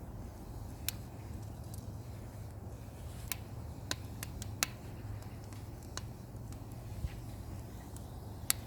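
Small wood fire of pine kindling crackling: a handful of sharp, scattered pops over a steady low rumble.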